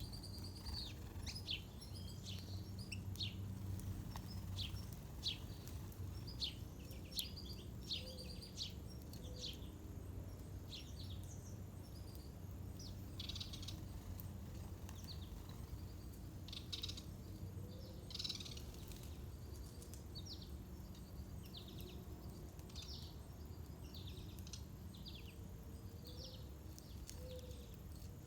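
Small birds chirping, short high calls repeated throughout, over a steady low background rumble, with a few faint low notes near the end.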